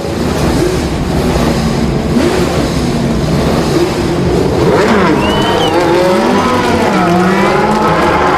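Car engine revving hard, its pitch rising and falling repeatedly, with a brief high squeal about five seconds in.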